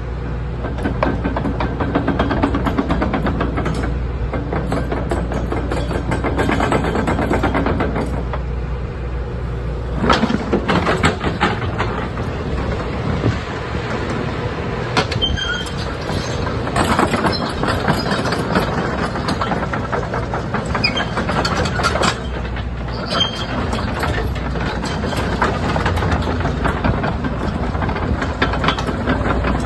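Excavator's diesel engine running, with metallic clanks and rattles several times over; the engine note changes about eight seconds in.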